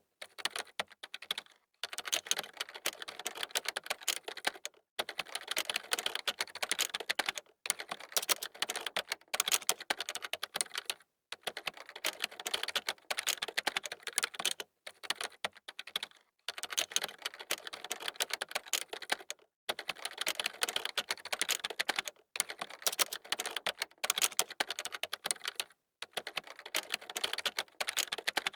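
Computer keyboard typing: rapid runs of key clicks in bursts of a few seconds, broken by short pauses.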